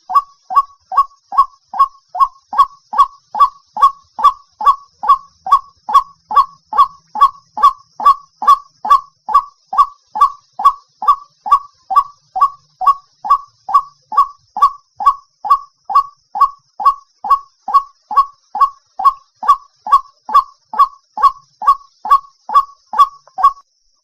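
White-breasted waterhen giving its monotonous night call: a short note repeated about twice a second in an even, unbroken run that stops just before the end.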